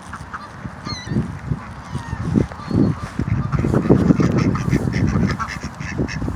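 A flock of geese honking and calling over one another, busiest in the middle, with a few thin higher chirps.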